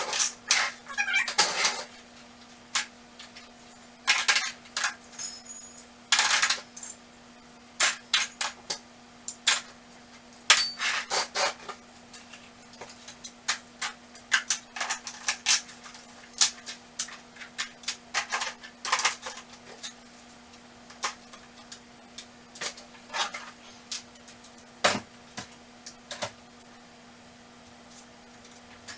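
Hand tools clanking and clattering as they are picked through and dropped into tool boxes: irregular flurries of sharp metallic clicks, some with a brief ringing, thinning out in the second half.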